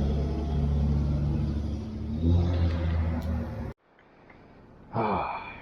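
Steady vehicle and road rumble with a low hum, which cuts off abruptly about two-thirds of the way through. A voice starts near the end.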